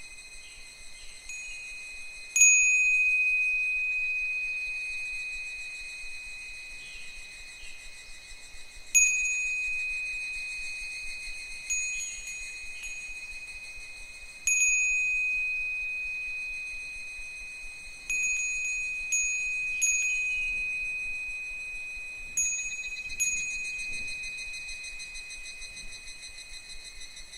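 Japanese furin wind bell struck by its clapper in the breeze, about nine times at uneven intervals, a few in quick pairs. Each strike rings a single clear high tone that fades slowly.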